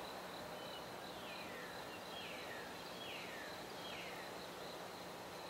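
Faint outdoor ambience: a bird calling a run of about four short falling notes, under a second apart, over a steady high-pitched insect drone.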